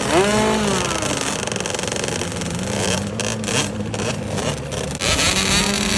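Small 50cc two-stroke youth dirt bike engines revving up and down. The pitch climbs sharply near the start and the sound swells about five seconds in.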